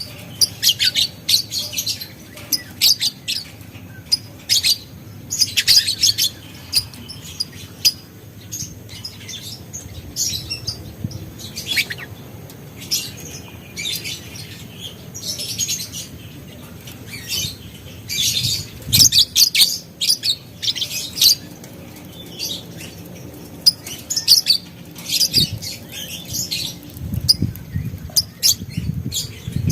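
Lovebird calling in quick, shrill chirps that come in irregular clusters, with short pauses between them, over a faint low background hum.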